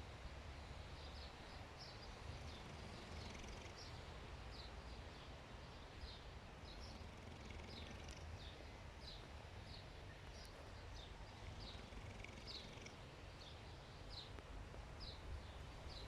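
Faint outdoor ambience: a small bird chirping over and over, about two short high chirps a second, over a low steady rumble.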